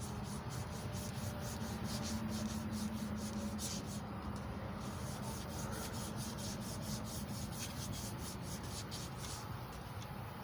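Emery cloth being worked back and forth over a small-block Chevy 350 crankshaft journal to polish it, in quick even rubbing strokes about five a second, with a short pause about four seconds in.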